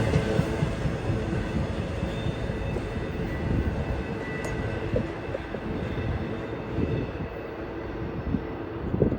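Freight train cars rolling past on the rails: a steady rumble with a faint high wheel tone and a few clanks, fading slowly.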